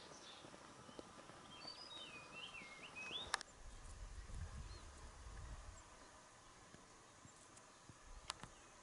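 A bird's faint wavering call, about a second and a half long, followed by a single sharp click; then a low rumble for a couple of seconds.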